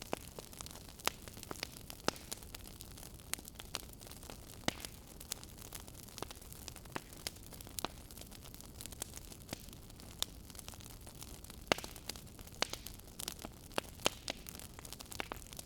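Wood fire in a fireplace crackling, with irregular sharp pops and snaps, several a second, over a low steady hiss.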